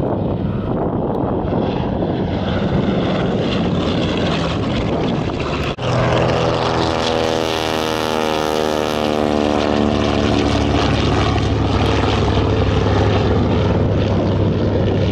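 Propeller aircraft engine drone at an air show. After an abrupt cut about six seconds in, an aircraft passes close by with a falling, sweeping tone, then settles into a steady low drone.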